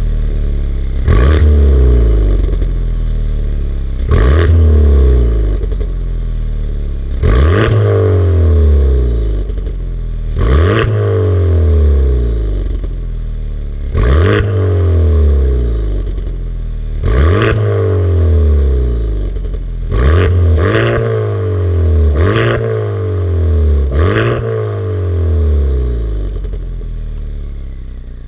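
Honda Civic Type R FK8's turbocharged 2.0-litre four-cylinder revved in short blips through a Remus front pipe and valved cat-back exhaust with the valve set to 20% open. About ten revs, each one falling back toward idle, spaced two to three seconds apart.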